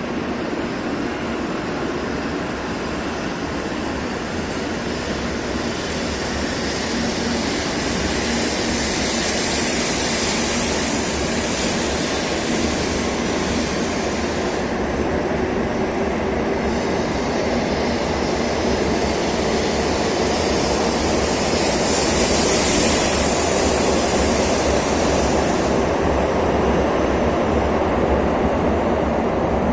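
Nozomi Shinkansen bullet train moving past the platform: a steady rushing of wheels and air that slowly grows louder, swelling into a stronger hiss twice.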